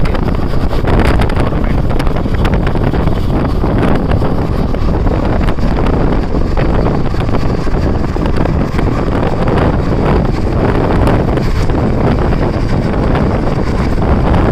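Moving passenger train running at speed: a steady rush of wheels on rail with wind buffeting the microphone.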